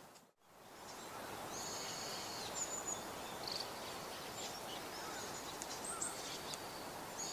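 Steady outdoor background noise with high, thin bird calls: short chirps and whistled notes that begin about a second and a half in and recur through the rest. The sound drops out briefly near the start.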